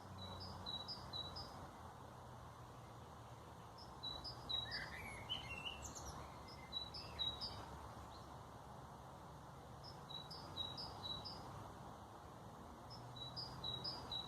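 Small songbird repeating a short phrase of quick, high, alternating two-pitched notes about every three seconds, with another bird giving a sliding call midway, over a steady outdoor background hum.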